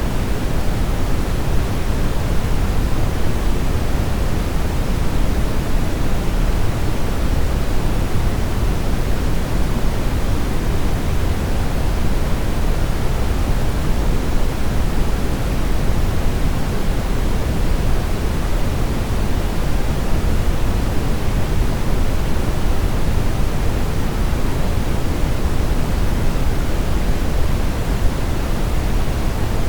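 Steady brown noise: an even, unbroken rushing sound weighted heavily toward the deep low end, like a low rumble, with no change in level.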